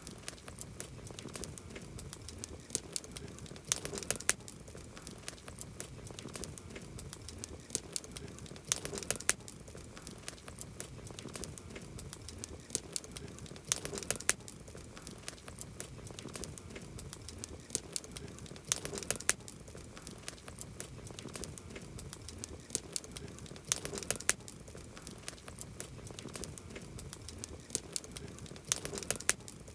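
Campfire crackling: burning wood giving a continuous run of small snaps and pops, with a cluster of louder pops about every five seconds.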